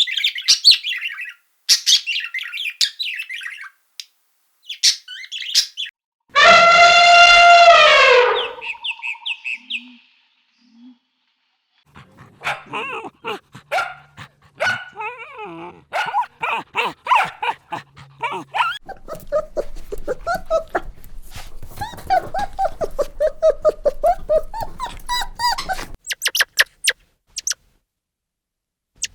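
A run of animal calls: high chirps for the first few seconds, one long pitched call about six seconds in, then many short barks and yelps in quick succession until near the end.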